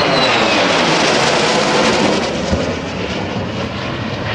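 Pratt & Whitney J57 turbojet of an F-100F Super Sabre jet fighter making a pass: a loud, steady jet roar that eases off a little in the second half.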